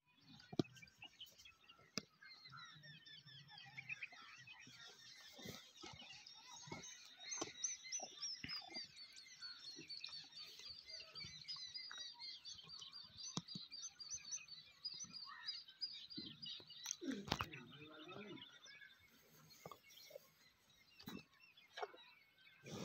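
Small birds chirping busily and faintly, many short high calls overlapping throughout, with scattered light clicks and knocks.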